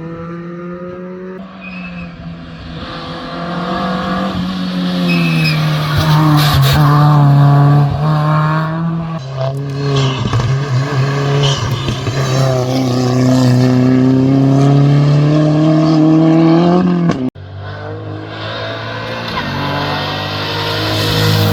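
Race car engine pulling hard up a hill climb, its note climbing and then dropping at each gear change, growing louder as the car approaches. The sound cuts off abruptly about 17 seconds in, and another engine note follows.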